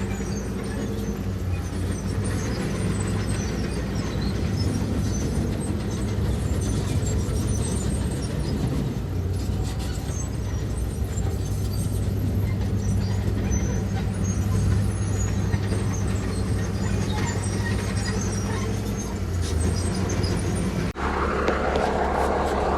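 Diesel engine of heavy earthmoving machinery running steadily under work, a low engine hum with machine noise over it. Near the end the sound breaks off suddenly and a different, higher engine sound takes over.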